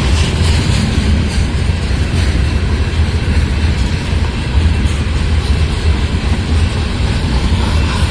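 Freight rock train passing close by: a loud, steady low rumble with a faint clatter of wheels on rail joints.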